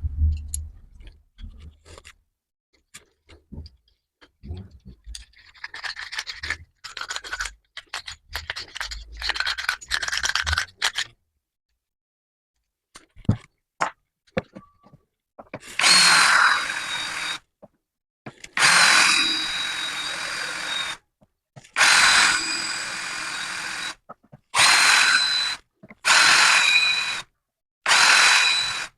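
Scattered clicks and scraping of handling, then an electric drill running in six short bursts of one to two seconds each, with a steady high motor whine, drilling small locating dimples into the cast-iron swivel base of a bench vise.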